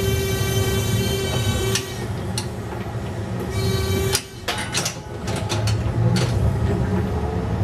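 Replica 1920s-style streetcar running with a steady low rumble and a buzzing whine that stops about two seconds in. A little after four seconds the noise briefly drops and a quick run of clicks and knocks follows, then the rumble comes back.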